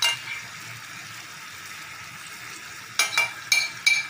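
Chicken tikka in its masala sizzling steadily in a grill pan. There is a sharp clink at the start and a quick run of metal clinks about three seconds in as a utensil knocks against the pan.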